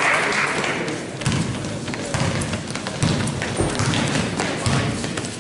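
Basketball game sounds on an indoor court: irregular thuds of the ball bouncing and players' feet on the hardwood floor, over a background murmur of voices.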